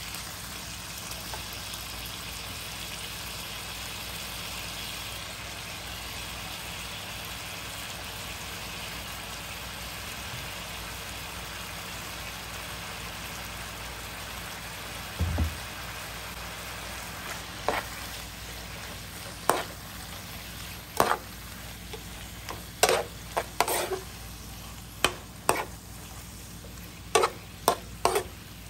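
Sliced beef sizzling as it stir-fries in an oiled pan. Through the second half a metal utensil clacks and scrapes against the pan a dozen or so times, with one low thump about halfway through.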